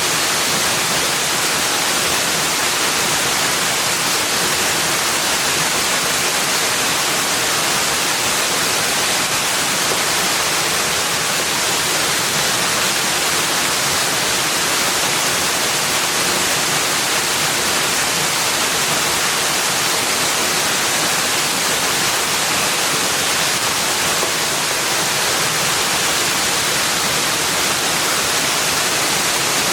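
Steady, unbroken rushing noise, even throughout and brightest in the upper range, with no distinct sounds standing out.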